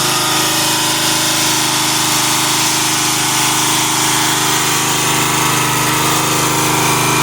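Engine on a truck-mounted mobile car wash rig running loudly and steadily at a constant speed, with a hissing noise above it.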